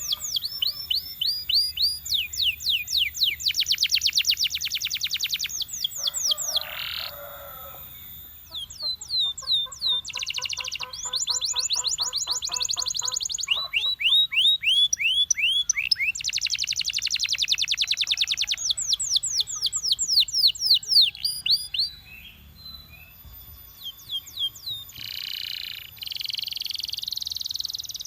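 Male Belgian canary singing a long song made of rapid trills: fast runs of repeated down-sweeping notes that change speed from phrase to phrase, with a lower rolling trill about ten seconds in. The song goes quieter and softer for the last few seconds.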